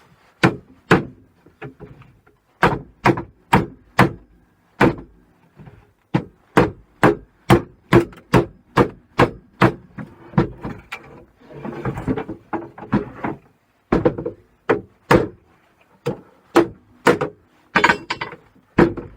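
Hammer blows in quick succession, about two a second, bending over the metal crimp tabs that hold a plastic end tank onto an aluminium radiator. The strikes pause briefly a little before halfway, and there is a stretch of scraping and rattling about two thirds of the way through.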